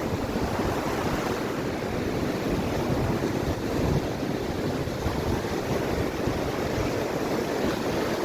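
Mediterranean sea waves washing onto the shore, a continuous surf with gentle swells in loudness, with some wind on the microphone.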